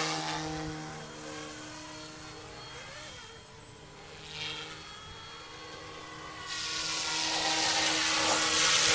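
Yu Xiang F07S RC Huey helicopter in flight: a steady electric rotor hum and whine. It fades over the first few seconds and grows louder again about two-thirds of the way through.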